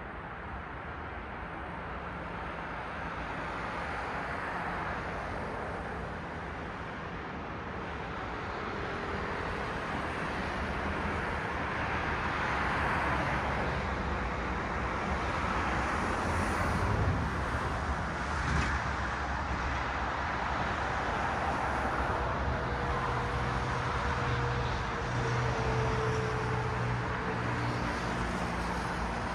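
Road traffic: cars passing on a city street, a steady rush of tyre and engine noise that swells and fades as vehicles go by, with a vehicle's engine hum in the last few seconds.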